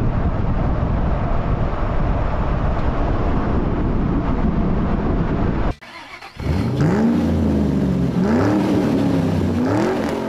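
A loud, steady low rumble for the first half. After an abrupt cut, an early Ford flathead V8 is revved several times, its pitch rising and falling with each blip of the throttle.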